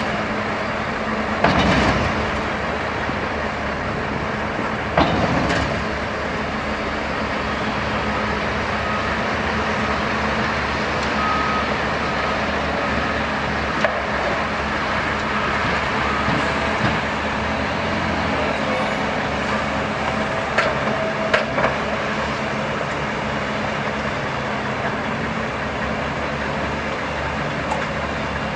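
Heavy diesel trucks and construction machinery running steadily, with louder surges about two and five seconds in. A reversing alarm beeps faintly for several seconds midway, and a few sharp knocks come near the end.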